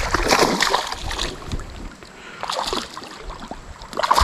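Water splashing and sloshing beside a kayak in irregular bursts as a big hooked spotted bass is brought to the boat, with wind rumble on the microphone.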